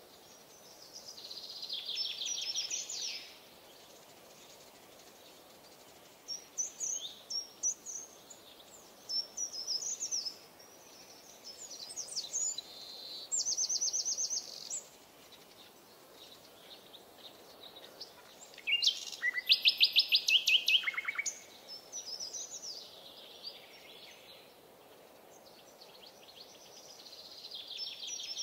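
Songbirds singing: separate phrases of fast trills and chirps every few seconds, the loudest a rapid run of notes about two-thirds through, over a faint steady background hiss.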